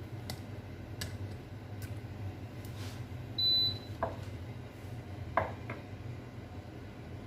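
A single short electronic beep from a kitchen appliance about halfway through, with a few light clinks and knocks of kitchen utensils over a steady low hum.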